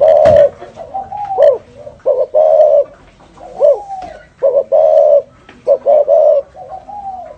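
Spotted dove cooing in the 'thổ rền' style, the low call used as a lure to provoke wild doves. It calls in repeated phrases about every two seconds, each a bending note followed by steady held coos.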